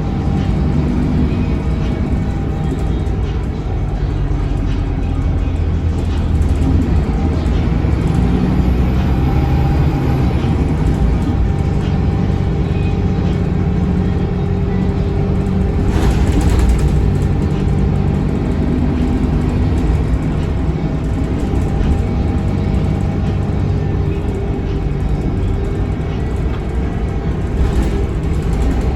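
Scania K280UB bus's DC9 five-cylinder diesel engine and ZF Ecolife automatic transmission running under way, the engine note shifting up and down with speed. A brief hiss cuts across it about halfway through.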